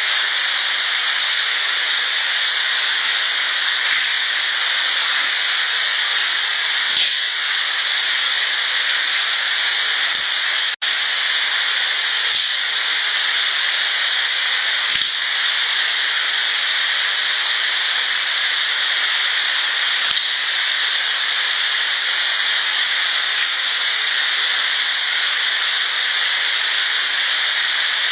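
A loud, steady hiss from a turned-up field recording, with a faint steady tone in it. Through the hiss come a few faint, dull knocks a few seconds apart, which the recordist presents as rock clacks. The sound drops out briefly near the middle, at a join between two clips.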